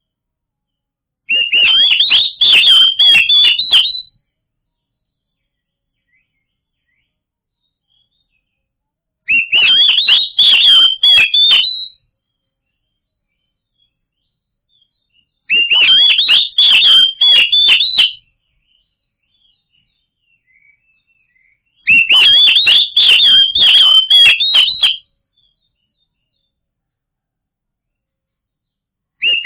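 Oriental magpie-robin (kacer) singing loud, rapid phrases of whistled notes. Four phrases of about three seconds each come with several seconds of silence between them, and a fifth begins at the end.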